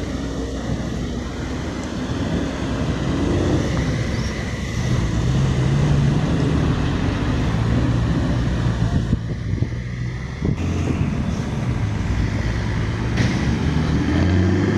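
Diesel engine of a ten-wheel dump truck running hard under load as it pulls through deep mud, its pitch shifting about mid-way and rising again near the end.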